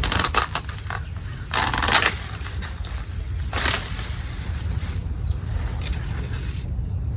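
Corn stalks, leaves and husks rustling and crackling as ears of sweet corn are pulled off by hand, in three bursts with the loudest about two seconds in, over a steady low rumble.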